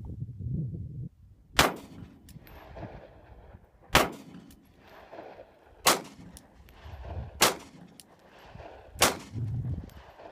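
Five single shots from a Glock 19 Gen4 9mm pistol, fired one-handed about every two seconds.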